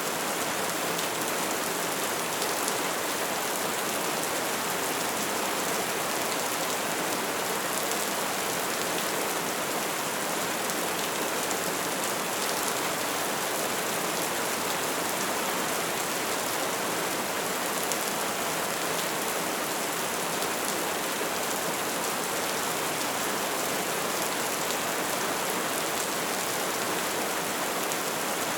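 Open fire burning steadily: a dense, even crackling with many small ticks and pops.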